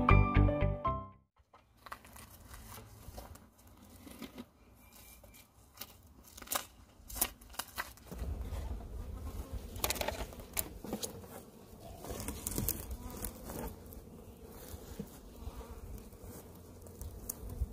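Honey bee swarm buzzing, with scattered clicks and rustles of handling; the buzz grows steadier and fuller about halfway through. A music track fades out in the first second or so.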